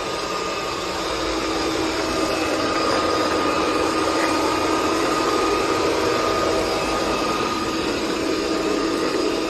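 A household appliance's electric motor and fan running steadily at a constant speed: a loud whir with a steady hum over airy hiss.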